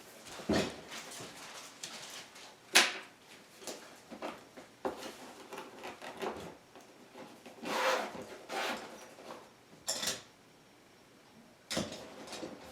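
A series of separate knocks, clicks and clatters of hard objects being handled, about a dozen short impacts with brief quiet gaps, the sharpest about three seconds in and near the ten-second mark.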